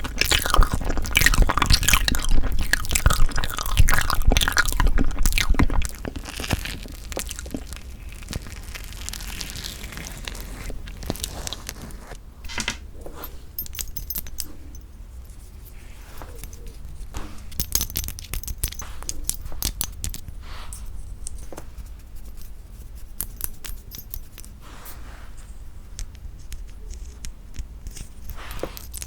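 Close-miked ASMR eating and handling sounds with bean curd tiramisu: a loud, dense crackling for about the first six seconds, then quieter scattered clicks, taps and short scrapes.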